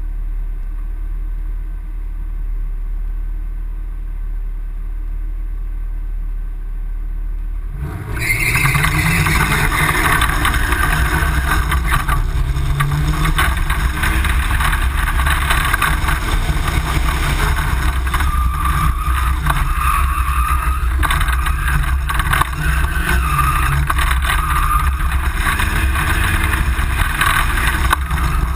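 Tube-frame drift buggy's engine heard on board: idling steadily for about eight seconds, then the car launches and the engine runs loud, its pitch rising and falling again and again through the drifting run.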